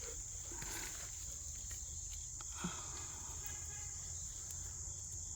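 Steady high-pitched chorus of insects singing without a break, with a low rumble underneath and one soft knock about two and a half seconds in.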